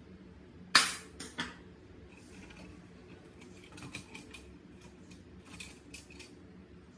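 Small hard parts being handled: scattered clicks and light metallic clinks, with one sharp knock about a second in and two small clusters of clicks later.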